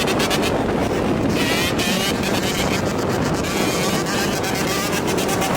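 Two-stroke dirt bike engine running on the move, its pitch rising and falling with the throttle, with wind buffeting the microphone.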